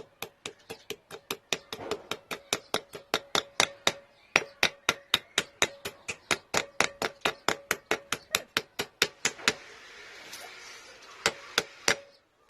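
Rapid, even hammer taps on steel, about four a second, driving a universal joint bearing cup into a drive shaft yoke, each strike leaving a short metallic ring. The tapping stops about nine and a half seconds in, then a couple of single taps follow near the end.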